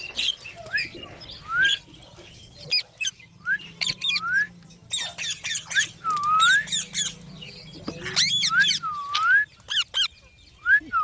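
Pet green parrots calling: a string of short upswept squawks, interspersed with harsh raspy bursts.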